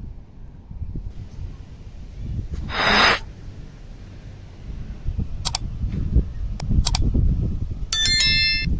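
Low wind rumble on the microphone, with a loud harsh call about three seconds in. Short high bird chirps come twice later, and a trilling bird call near the end.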